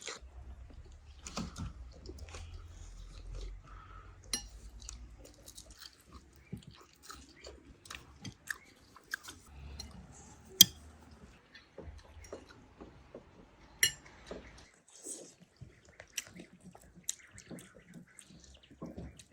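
People chewing and biting food at a meal, with scattered small clicks of eating and one sharp click about ten seconds in; a low rumble underlies the first few seconds.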